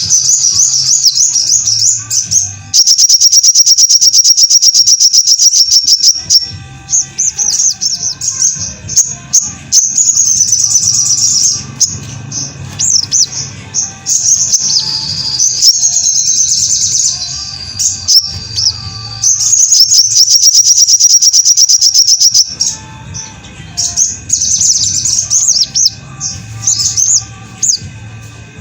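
Sogok ontong (little spiderhunter) singing, with high, fast chattering trills and long rapid buzzing trill runs, played as a masteran song-tutor recording.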